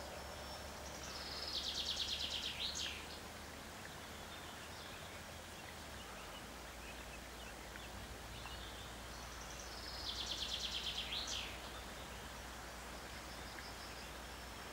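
A songbird sings twice, about eight seconds apart. Each song is a fast high trill of repeated notes that ends in a quick up-and-down flourish. Between the songs there is a steady faint outdoor hiss.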